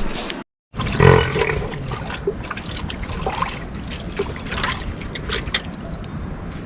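Water trickling and dripping, with many scattered ticks of drops over a steady wash of noise. The sound drops out completely for a moment about half a second in, and a louder burst comes just after.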